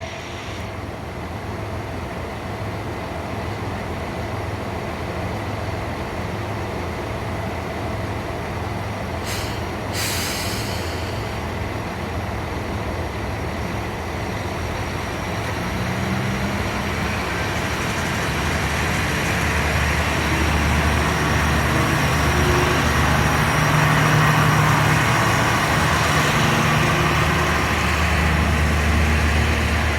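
Kanto Railway KiHa 2400-series diesel railcar idling, with two short hisses of air about nine and ten seconds in. From about halfway its diesel engine revs up and grows louder as the railcar pulls away from the station.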